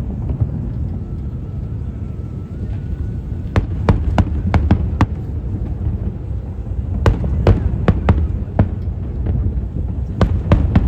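Fireworks going off: a steady low rumble of bursts, with three clusters of sharp crackling pops, the first a few seconds in, the next in the middle and the last near the end.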